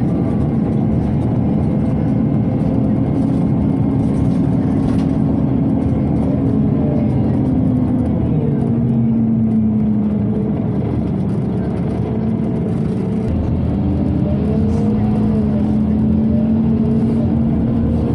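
Scania OmniCity city bus heard from on board, its engine and drivetrain running as it drives. A steady pitched whine slides up and down with the bus's speed over a constant rumble.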